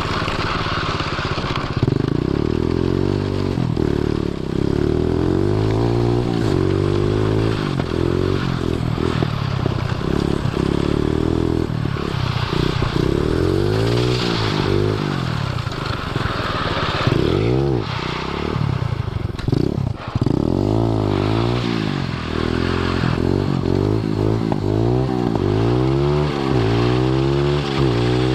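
110cc pit bike engine of a drift trike, revved up and let off again and again, with some scraping and clatter.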